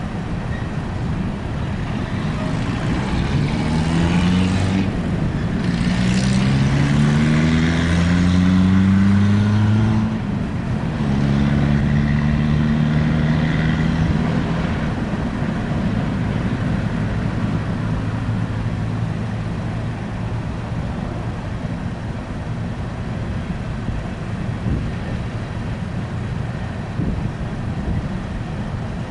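Steady rumble of a passing empty coal train. Over it, an engine climbs in pitch in several steps with short breaks during the first ten seconds, like a vehicle accelerating through gear changes, then holds steady for a few seconds and fades.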